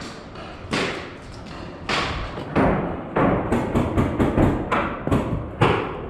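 Paintball markers firing: a few single shots, then a quicker string of shots from about three seconds in.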